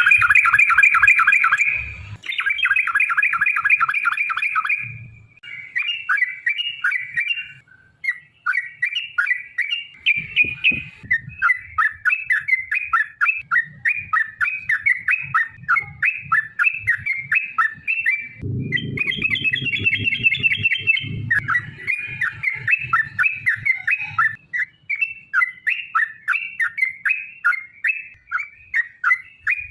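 Yellow-vented bulbul (trucukan) singing long, fast chattering runs of rapidly repeated notes, broken by short pauses. A low rumble sits underneath for a few seconds about two-thirds of the way through.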